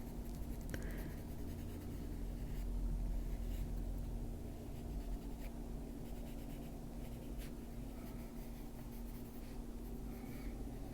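Coloured pencil scratching lightly on a colouring-book page in short, irregular shading strokes, over a faint steady hum.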